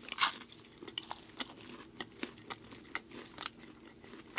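Close-miked eating sounds: a person chewing food with irregular wet mouth clicks and smacks, a louder one just after the start.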